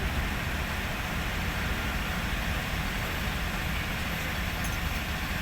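Hino 500 truck's diesel engine running steadily.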